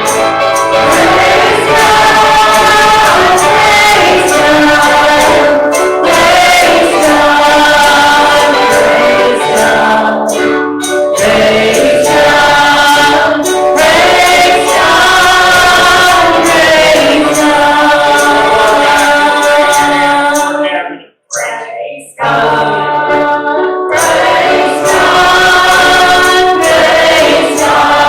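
Gospel song sung by a group of voices, with one short break in the singing about three-quarters of the way through.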